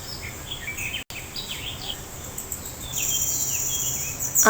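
Nature ambience: small birds chirping in short falling notes, with an insect buzz that comes in about three seconds in.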